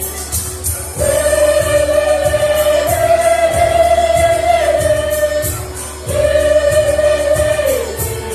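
A choir singing in harmony, with long held notes in two phrases about a second and six seconds in, over a steady beat.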